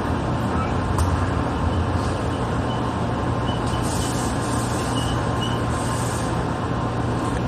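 Sanyo Electric Railway commuter train heard from inside the front car: a steady mechanical noise with a low hum and a faint steady tone, and one small click about a second in.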